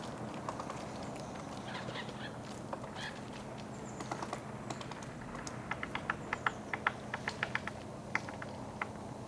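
Great spotted woodpecker pecking at wood: sharp, irregular taps, a few scattered at first, then a quicker run of about a dozen blows in the second half, over a steady low background hum.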